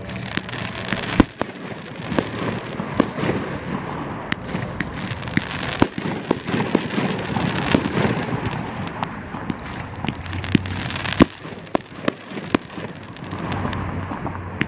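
A 500-gram, 24-shot consumer fireworks cake ('Committed') firing in sequence: repeated sharp bangs of shots launching and breaking, over continuous dense crackling from the crackling tails and breaks. The loudest bangs come about a second in and again about eleven seconds in.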